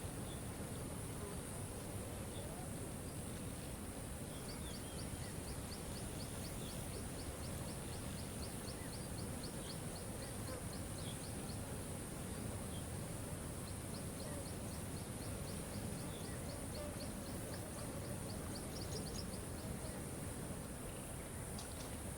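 Steady rush of a waterfall with birds calling over it: a bird repeats a high ticking call about four times a second in two long runs, with scattered short chirps.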